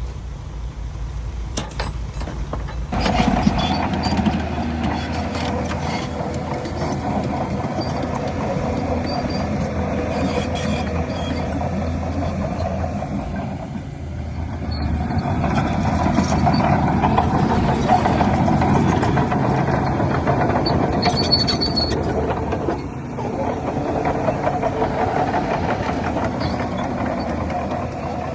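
Heavy diesel engine of a bulldozer working under load, running steadily. It picks up about three seconds in, with a few knocks, swells louder for several seconds past the middle and drops briefly near the end.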